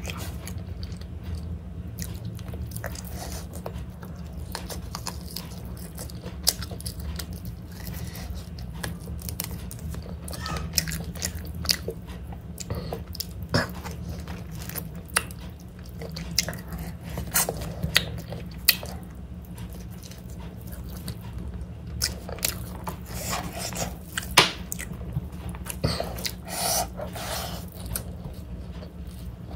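Close-up mouth sounds of eating chicken biryani by hand: chewing, lip smacks and finger sucking in many small wet clicks, over a steady low hum.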